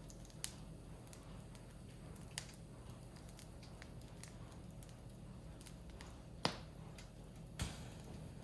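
Firewood burning and crackling, with a few sharp pops over a faint steady background; the loudest pop comes about six and a half seconds in.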